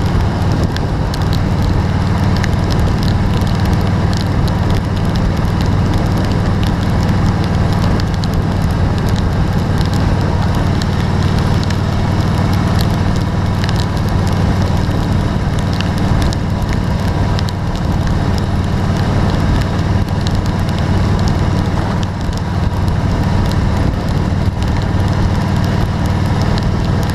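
Rain falling steadily, a dense pattering of many small drop ticks over a steady low rumble.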